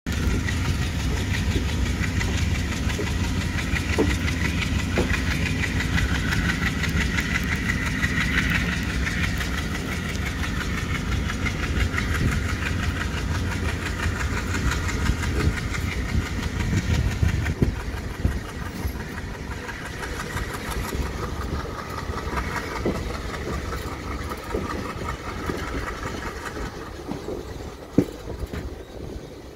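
Amritha Express passenger train running as it pulls out of the station, heard from the open doorway of a coach: a steady rumble and rattle of the carriages, with a few sharp wheel clicks on the rails.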